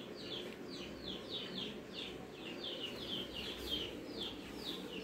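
A small bird chirping over and over, quick high chirps that slide downward, about four or five a second, over faint steady room noise.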